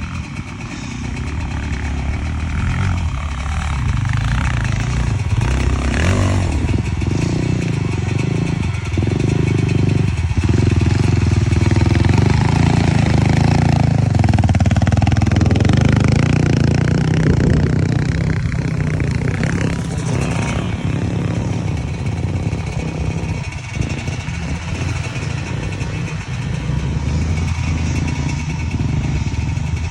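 Dirt bike engine revving hard under load, as on a steep off-road climb. It grows louder to a peak about halfway through and then eases off.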